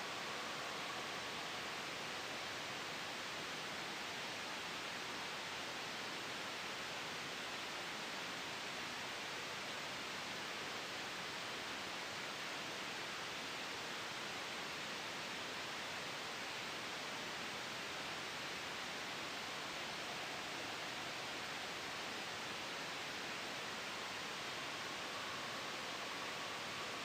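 Steady soft white noise blended with a gentle wind sound: an even, unchanging hiss with no gusts or sudden changes.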